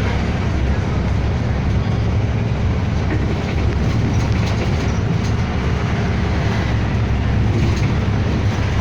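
City bus running in traffic: a steady low engine and road rumble, heard from inside the cabin.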